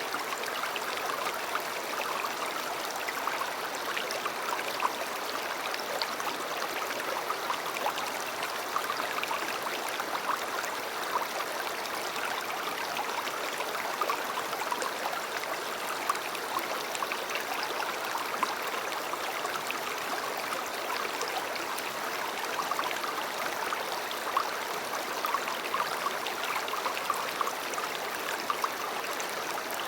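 River water flowing and babbling steadily, with many small splashes and gurgles over an even rush.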